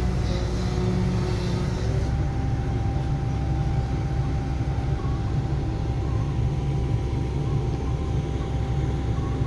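Diesel engine of heavy earthmoving machinery running steadily: a low drone with a faint whine above it.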